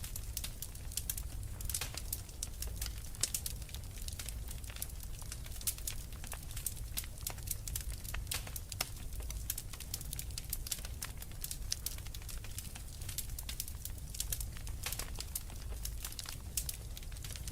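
Wood fire crackling: a dense, irregular run of small sharp pops and snaps over a low steady rumble.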